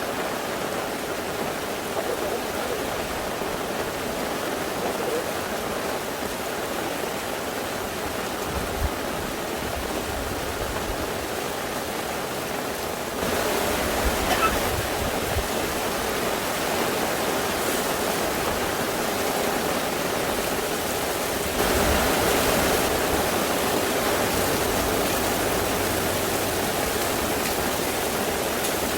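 Steady rain, an even rushing noise that steps up louder about 13 seconds in and again about 22 seconds in.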